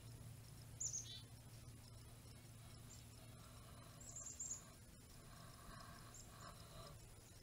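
Faint bird calls: a few short high chirps, one sweeping downward about a second in and a small cluster around the middle, over a low steady background rumble.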